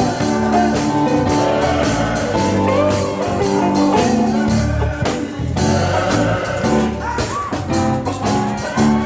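Gospel band music: electric guitar over a steady drum beat, with some singing.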